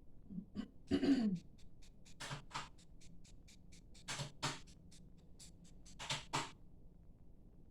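A run of sharp clicks and taps, several coming in quick pairs. A brief voice-like sound falls in pitch about a second in.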